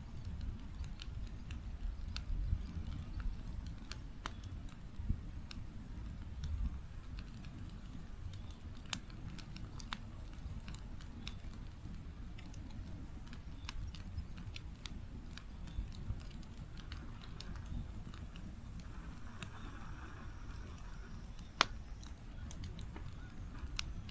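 Wood fire burning in a fireplace: a low steady rumble of flame with scattered sharp crackles and pops from the burning logs, one louder pop about three seconds before the end.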